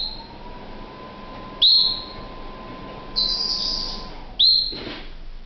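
Canary calling: loud whistled notes that sweep sharply up and then hold, one about every second and a half, with a harsher, buzzier note about three seconds in.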